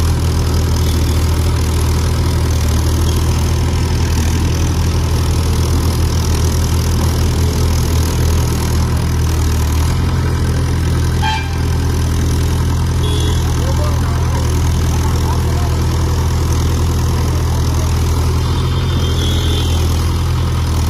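A heavy vehicle engine idling steadily, its note shifting slightly about ten seconds in.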